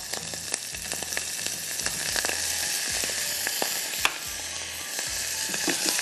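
Chopped garlic, onion and sliced mushrooms sizzling as they fry in oil in a pan on a gas hob, with a steady hiss. Light clicks of the stirring spoon against the pan run through it, with a sharper click about four seconds in.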